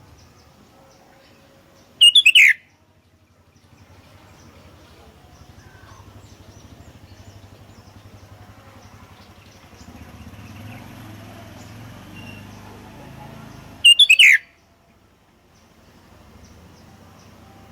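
Sooty-headed bulbul (kutilang) giving two loud, short calls about twelve seconds apart, each a brief phrase falling in pitch, over a faint low background hum.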